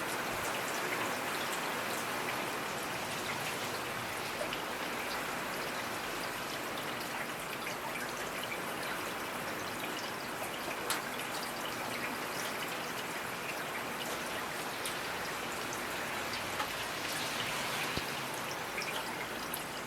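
Steady rainfall: a dense, even hiss of rain with scattered individual drops ticking on a surface.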